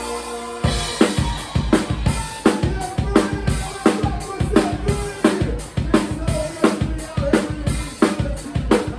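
Live band music: a held chord, then under a second in the drum kit and the rest of the band come in together with a steady, driving beat.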